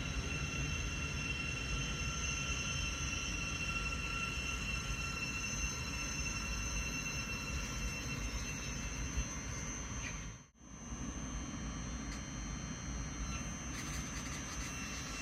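Train running on the main line: a steady rumble of wheels on rail with several steady high whining tones over it. The sound drops out briefly about ten and a half seconds in.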